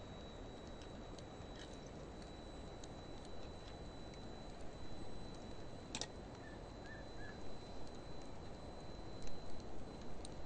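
Driftwood and dry hardwood firewood burning, played at half speed: a steady low hiss of the flames with scattered crackles and pops, the sharpest pop about six seconds in.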